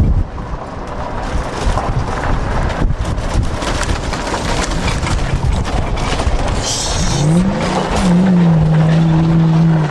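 Off-road 4x4 truck on the move, its engine running under a rough, noisy rumble; about seven seconds in the engine revs up, drops briefly, then revs up again and holds a steady high note to the end.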